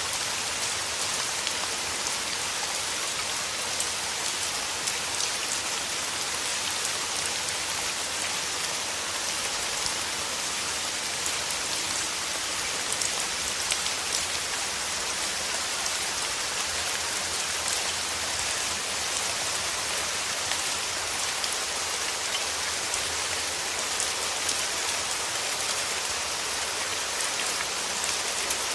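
Steady rain falling, an even hiss of rainfall dotted with many small, sharp drop hits.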